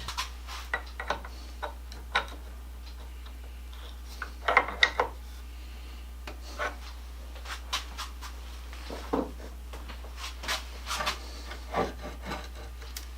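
Hand work with metal parts and tools at a workbench: irregular light clicks and knocks with short scraping rubs, a small cluster of sharper knocks about four and a half seconds in.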